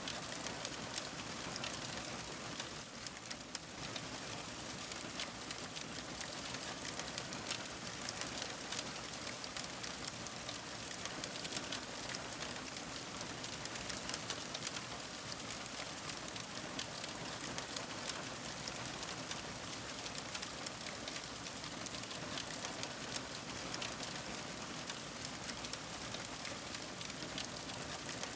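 Fire crackling: a steady hiss thick with small rapid pops and crackles.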